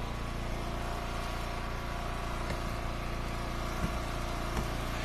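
Gas engine of a hydraulic log splitter running at a steady speed, with a few faint knocks in the second half.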